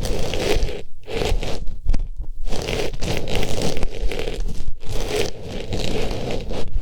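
Artificial flower pushed into and rubbed around an ear microphone: close, loud scratchy rustling and scraping of stiff fabric petals, with a few brief pauses.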